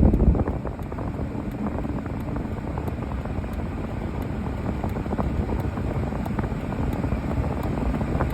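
Steady low rumbling noise, loudest in the first half second and then even.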